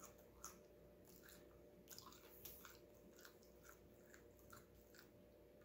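Faint chewing of a mouthful of sub sandwich: a steady run of soft, wet mouth clicks, a little over two a second.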